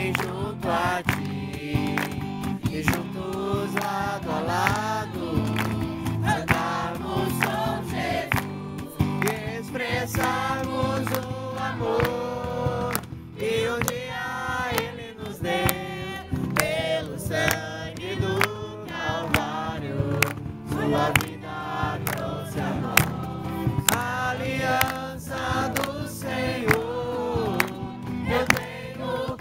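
A group singing a Portuguese-language worship song together, with instrumental accompaniment and a beat.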